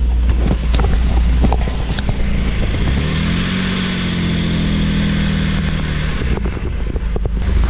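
Jaguar XJ220's twin-turbo V6 idling with a steady low drone, with a few light clicks and knocks in the first two seconds.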